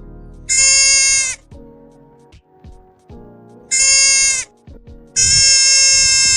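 Three loud, drawn-out animal bleats, the last the longest, over light background music.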